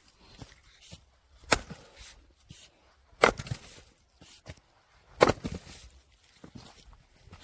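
Firewood being split: three sharp chopping strikes roughly two seconds apart, each followed by a brief clatter of wood.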